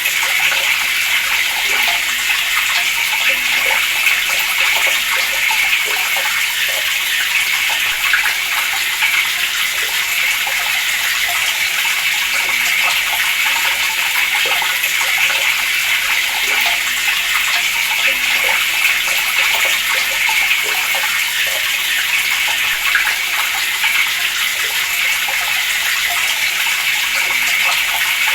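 Water running steadily from a tap, an even splashing hiss that does not change.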